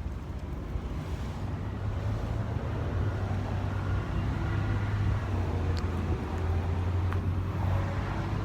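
Steady low hum of nearby car engines and road traffic, with a couple of faint clicks.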